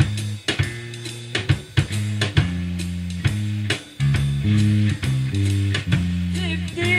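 Live band playing: bass guitar and drum kit with electric guitar, keeping a steady beat of about two drum hits a second.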